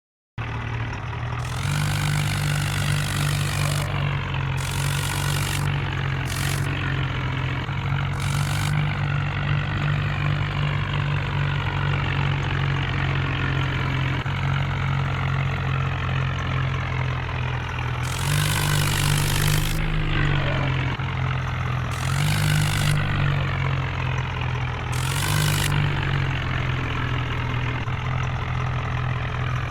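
Tractor engine running continuously and pulling hard, its note lifting several times. Short bursts of loud hiss come with the surges.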